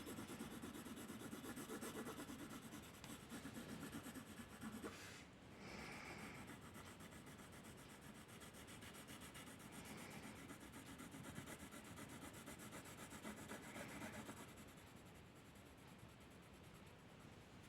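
Faint, rapid back-and-forth strokes of a drawing or colouring tool rubbing on paper, brisker in the first few seconds and then lighter.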